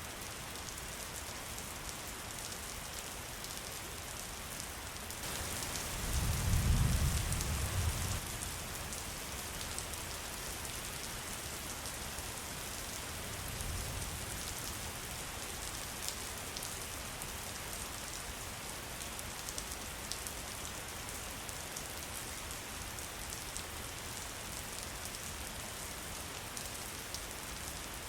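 Steady rainfall pattering on surfaces. About six seconds in, a low rumble swells for two seconds and is the loudest thing heard; a weaker one follows around fourteen seconds.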